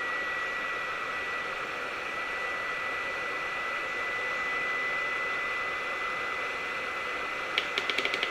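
Hot air gun blowing steadily as it heats up at its 200-degree setting: a steady rush of air with a thin high whine over it. Near the end comes a quick run of sharp clicks.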